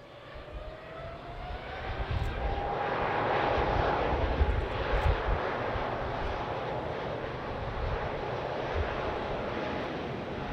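Jet airliner engines: a whine rising in pitch over the first few seconds, over a broad jet rush that builds and then holds steady.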